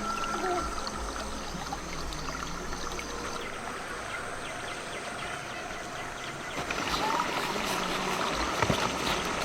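River water running steadily, with a few light knocks and small splashes in the last couple of seconds.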